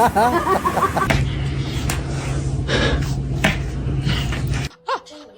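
A dog yelping and whining in short rising-and-falling cries for about the first second, then a steady low hum with scattered clicks that cuts off near the end.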